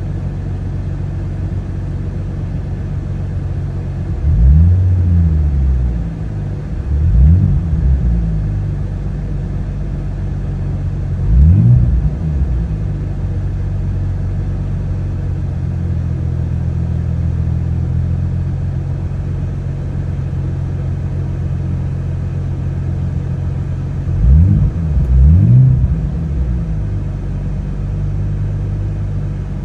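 1992 Nissan 300ZX Twin Turbo's 3.0-litre twin-turbo V6 idling after a cold start, blipped with light revs five times: three single blips spread through the first half and a quick pair near the end, each settling back to idle.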